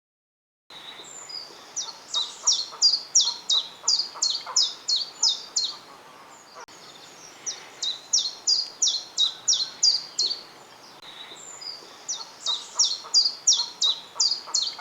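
A small songbird singing: three repeated phrases, each a run of about a dozen quick, high, down-slurred notes lasting around four seconds, with short pauses between phrases.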